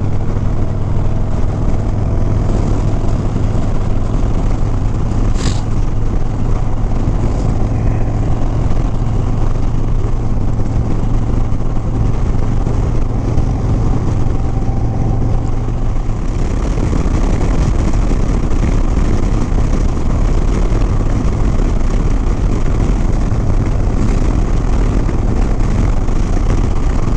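Harley-Davidson Sport Glide's V-twin engine running steadily at road speed, with loud wind rush on the helmet microphone. About two-thirds of the way through, the steady engine hum drops back and the wind rush grows stronger.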